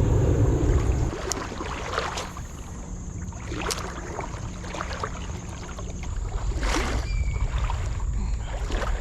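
Creek ambience: water splashing and sloshing in short bursts over a low rumble, with a steady high insect drone and a brief bird chirp about seven seconds in.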